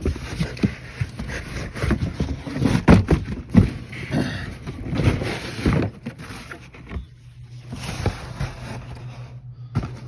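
Cardboard box and packaging being handled and opened by hand: irregular rustling, scraping and knocks for the first several seconds, then quieter handling over a steady low hum.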